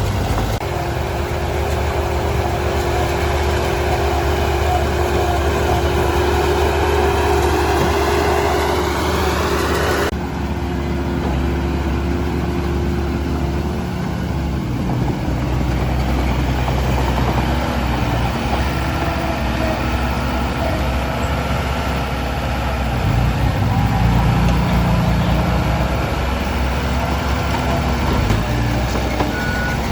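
Diesel engine of heavy earthmoving machinery running steadily, with an abrupt change in the sound about ten seconds in.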